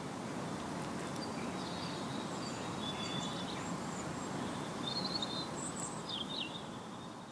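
Outdoor ambience: a steady background hush with small birds chirping in short, high-pitched twitters through the middle, fading out near the end.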